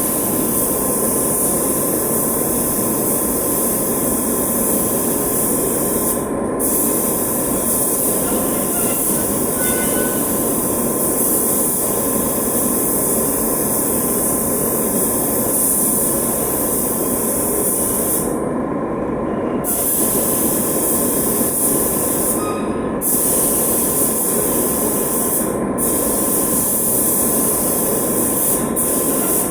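Compressed-air paint spray gun hissing in long passes while spraying urethane, with short breaks as the trigger is released about four times. A steady running noise and a faint steady tone underneath carry on through the breaks.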